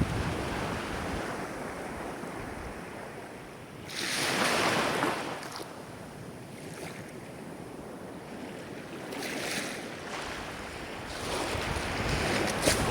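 Ocean surf: waves breaking and washing in. Swells of the sound come about four seconds in, again around nine seconds, and near the end.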